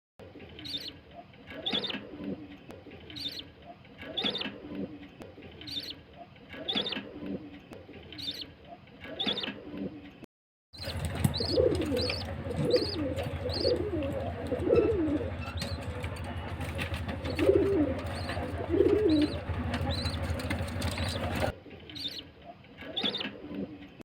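Caged birds calling, with repeated calls about once a second. After a brief break, a steady low hum runs under lower, swooping calls and scattered high chirps.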